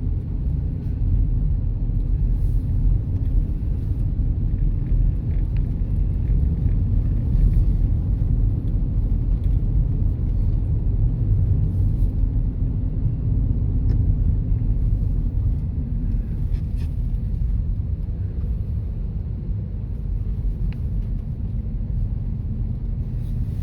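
Steady low rumble of a car being driven: tyre and engine noise.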